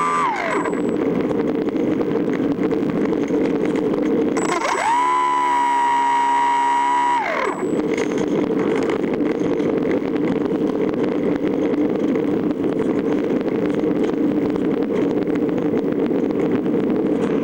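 A radio-controlled model plane's motor whines and is throttled back just after the start. About four and a half seconds in it is throttled up to a steady whine, held for about three seconds, then cut again. A steady wind rush runs underneath throughout.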